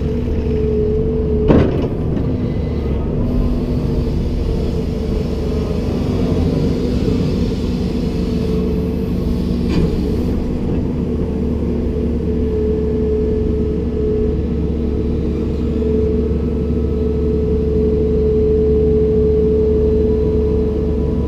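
Komatsu PC290-10 excavator running steadily, a diesel drone with a constant high whine over it. There is one sharp knock about a second and a half in, and a fainter click about ten seconds in.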